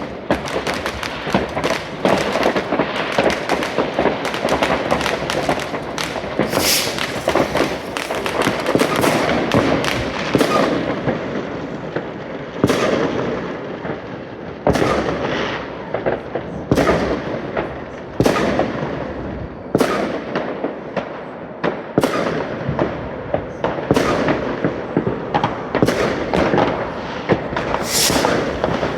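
Fireworks and firecrackers going off. There is a dense, continuous crackle of bangs for about the first ten seconds, then separate sharp bangs every second or two, each trailing off in an echo.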